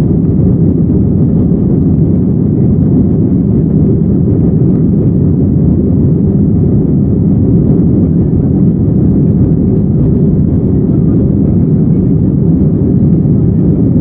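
Airbus A319 cabin noise heard from a window seat behind the wing: a steady, loud, low rush of jet engine and airflow noise with no change in pitch or level.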